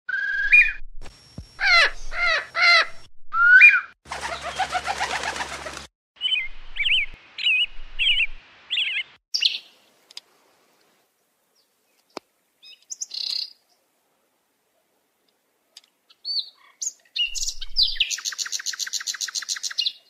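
Short recordings of several different songbirds' calls and songs, one after another, with abrupt silent gaps between them; near the end a fast, buzzy trill.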